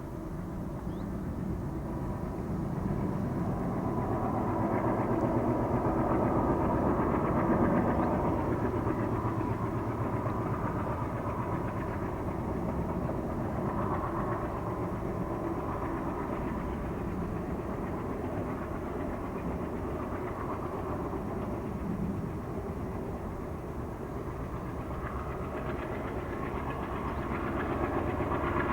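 MLW diesel-electric freight locomotive's ALCO 251 engine running under load with a steady low rumble. It swells louder about a quarter of the way in and again near the end.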